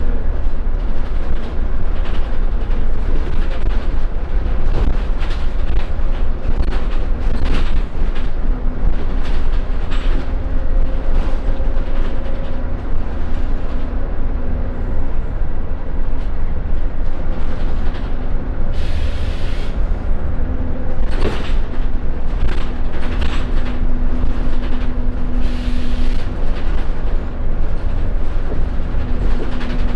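Scania L94UB Wright Solar single-deck bus under way, heard from inside the saloon: steady diesel engine and road rumble with a held drone, and frequent rattles and knocks from the body. A short hiss sounds about two-thirds of the way through.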